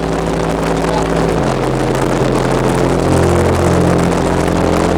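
Car engine and road noise heard from inside a moving vehicle, the engine note stepping to a new pitch about a second and a half in and again about three seconds in.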